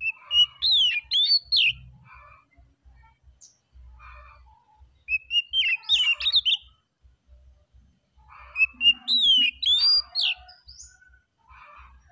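Oriental magpie-robin (kacer) singing: three bursts of quick, sweeping whistled notes about four seconds apart, with softer notes in between.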